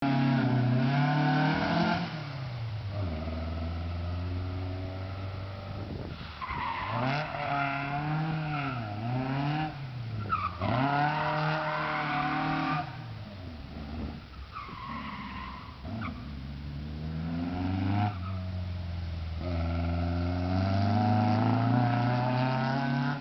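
VW 1303 Beetle's air-cooled flat-four engine, enlarged to 1835 cc, running and being revved, its pitch rising and falling again and again as the throttle is blipped and released.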